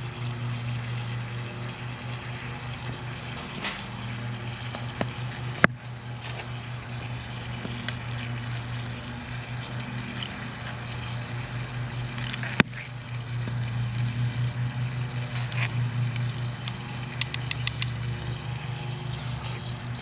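Campfire cooking: bacon sizzling in a pan over the fire, with wood crackling and two sharp pops, about six and twelve and a half seconds in, over a steady low pulsing hum.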